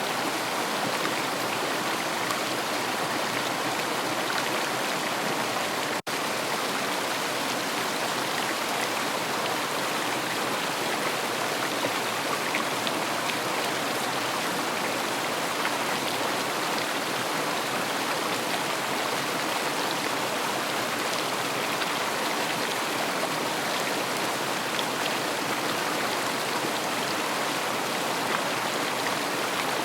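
River water rushing and splashing steadily over its bed, broken by a split-second gap about six seconds in.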